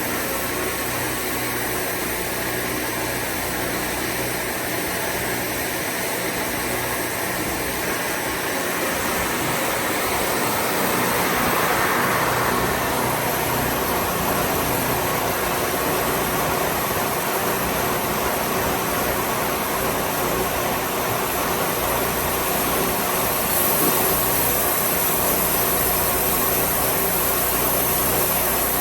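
Wood-Mizer sawmill running steadily, a continuous engine sound with noise, growing a little louder about ten to twelve seconds in.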